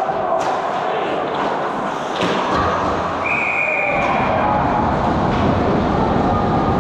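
Ice hockey rink din: voices echoing in the arena, with sharp knocks of sticks and puck against the boards. About three seconds in, a short steady blast of a referee's whistle, coming just after a goal.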